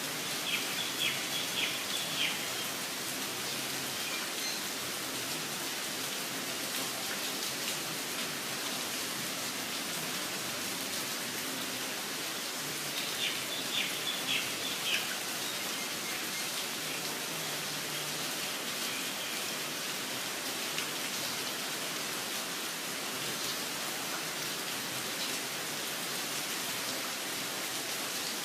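Steady rain falling, with a bird calling twice over it: each call is a quick run of about five sharp high notes, once near the start and once about halfway through.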